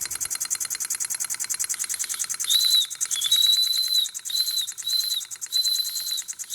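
Small model steam engine running fast, its exhaust beating in a rapid even chuff. From about two and a half seconds in, its steam whistle blows a series of short high toots, about six.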